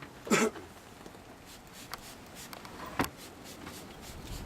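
Handling noises: a short scrape near the start, a sharp knock about three seconds in, and small clicks and rustles between.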